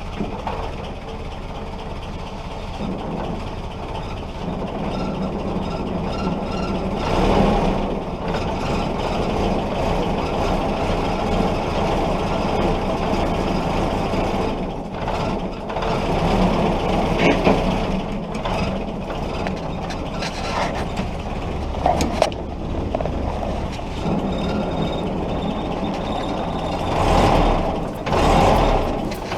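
Willys jeep's L-134 four-cylinder engine running steadily on its own fuel for the first time after decades of sitting, with a few louder swells along the way.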